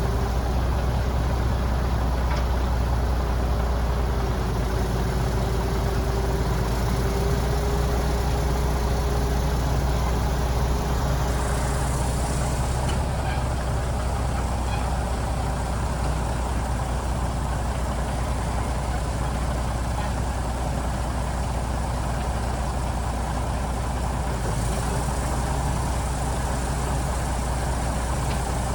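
Diesel engine of a Scania 94G 300 truck idling steadily, with a faint high whine over it for about the first twelve seconds.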